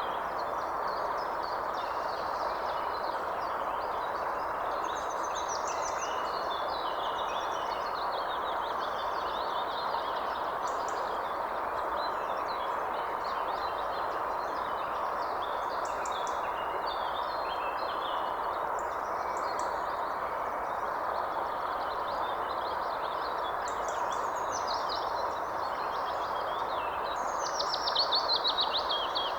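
Several birds chirping and trilling over a steady rushing background noise, with one louder, fast run of notes near the end.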